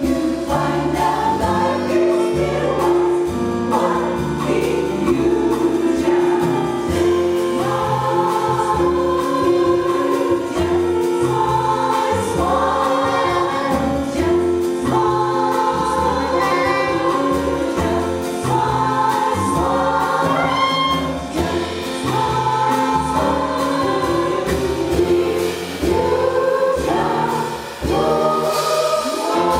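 A jazz chorus singing in harmony with a small band of piano, saxophone, bass and drums, the bass moving note by note under the voices.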